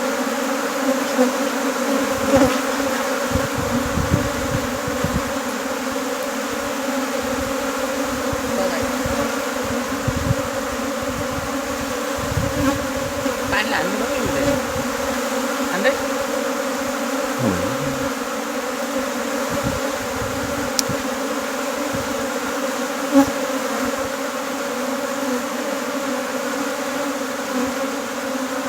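Many honeybees buzzing together in a steady, even drone, with a few light knocks now and then.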